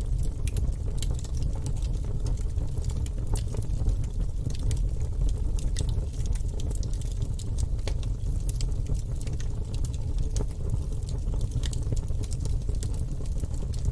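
Wood logs burning in a fireplace: a steady low rumble of fire with frequent, irregular sharp crackles and pops.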